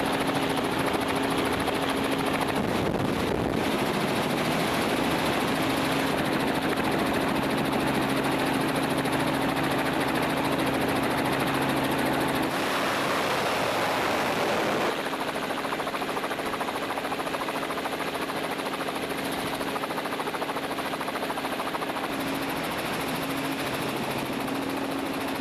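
Jet ski (personal watercraft) engines running hard during racing: a steady engine drone over a dense hiss. The sound changes abruptly twice partway through.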